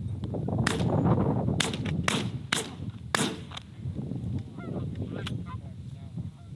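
A rapid volley of about five shotgun shots in the first three seconds, then one more, as a flock of geese flushes honking.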